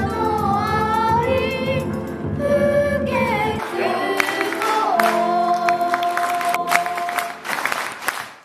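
A choir singing a song with low accompaniment that drops out about three and a half seconds in; the voices then hold a long final note, with scattered claps coming in during the last few seconds.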